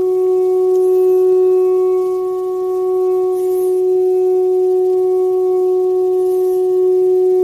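A steady sustained drone held at one unchanging pitch, with a few overtones above it.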